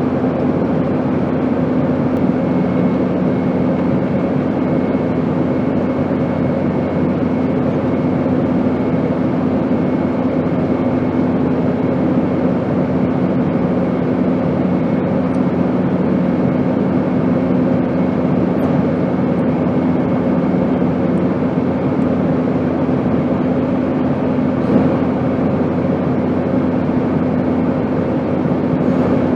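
Airplane engine noise: a steady, unbroken drone with a constant low hum running through it.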